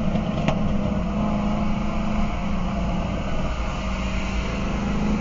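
Car engine running at a steady pitch with little change in revs, with a single brief click about half a second in.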